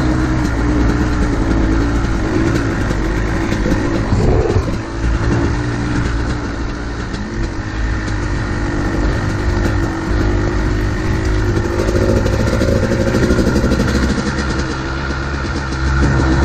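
Two-stroke dirt bike engine running hard at speed, its pitch rising and falling with the throttle, over a steady rush of wind noise.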